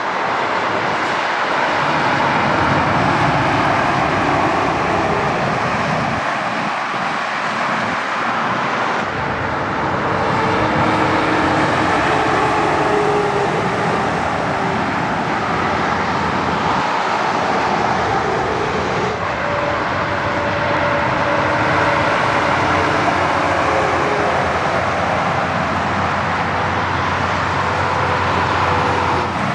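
Highway traffic with heavy trucks going past: a steady tyre and engine roar, with faint engine tones and abrupt shifts about nine and nineteen seconds in.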